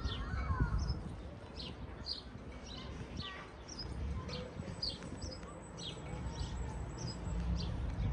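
Small birds chirping: short, high chirps that slide downward, about two a second, over a low steady background rumble.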